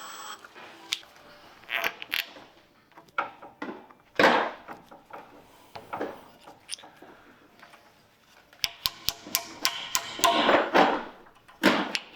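Hand work on wood pieces: scattered knocks, clicks and short scraping sounds, with a run of quick light taps about nine seconds in and again near the end.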